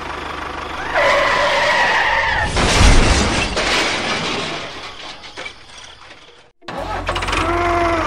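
A sequence of vehicle sounds. About a second in comes a held tone lasting a second and a half, then a loud rush of noise with a thud that fades over about three seconds. After a brief cut to silence, a low, rhythmic engine rumble starts and keeps running.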